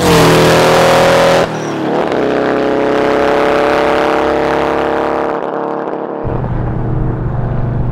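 1959 VW Beetle's 2.4-litre twin-turbo air-cooled flat-four accelerating hard, its pitch climbing. A gear change breaks the note about one and a half seconds in. It pulls again for several seconds, then the throttle comes off near six seconds and it settles to a lower, steady drone.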